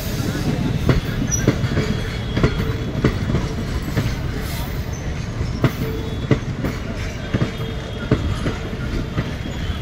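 Express train of passenger coaches rolling past: a steady rumble, with the wheels clacking over rail joints every half second to a second.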